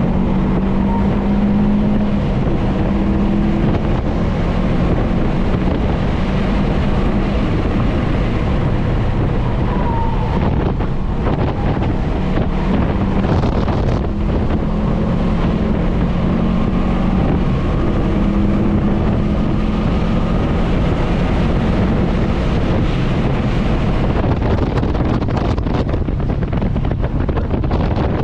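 Subaru WRX STI's turbocharged flat-four engine running hard at track speed, heard from inside the cabin over heavy wind and road noise. The engine note comes and goes as the driver works the throttle through the corners.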